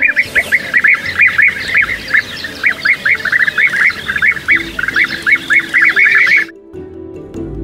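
Birds calling in a quick, busy run of short harsh notes, several a second, that cut off suddenly about six and a half seconds in.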